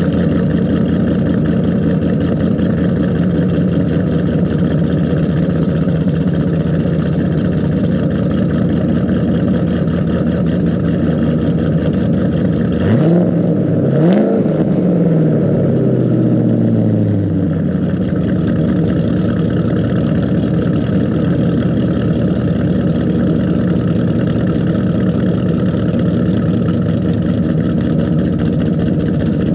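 A 2008 Mustang Bullitt's 4.6-litre V8 with Ford Racing cams, Kooks long-tube headers, X-pipe and Magnaflow mufflers, idling loudly with a cam chop while still warming up from a cold start. About halfway through, the throttle is blipped twice in quick succession and the revs sink back to idle over a few seconds.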